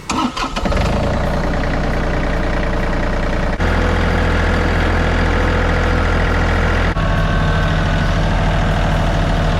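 Tractor engine running steadily at a low, even pitch, changing abruptly twice, about three and a half and seven seconds in.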